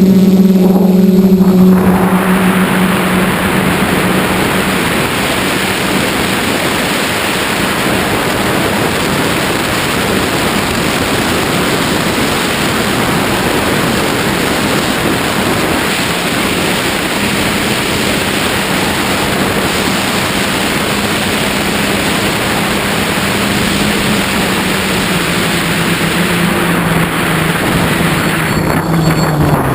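QAV540G quadcopter's motors and propellers humming in flight, soon buried under a loud, steady rushing noise; the hum comes through again near the end and dips in pitch.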